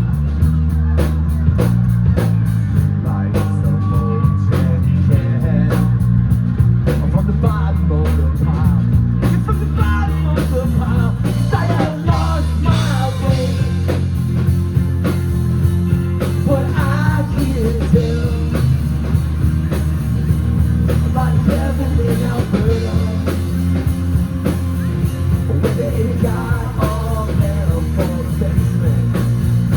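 Live rock band playing at full volume, with drum kit, bass and guitars and a wavering lead melody line over them.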